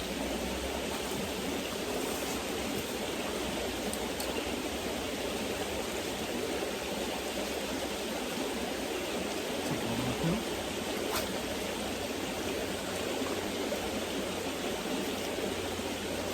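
Creek water running steadily over rocks, an even rushing that does not change.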